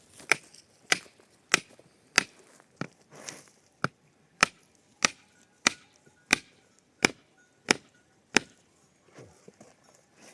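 A wooden stake is hammered in with about a dozen steady, evenly spaced blows, roughly one every 0.6 seconds, stopping near the end.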